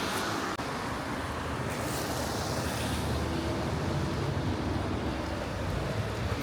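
Steady hiss of traffic on a wet road, with a faint low engine hum joining about halfway through.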